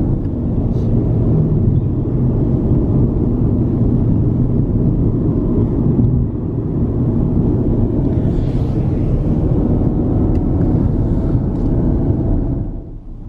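Steady low rumble of road and engine noise inside a moving SUV's cabin. The noise dips sharply just before the end.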